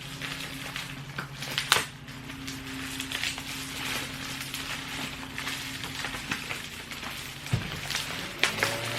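Packaging crinkling and rustling as scooter parts are handled and unpacked from the box, with a few sharp knocks, over a steady low hum.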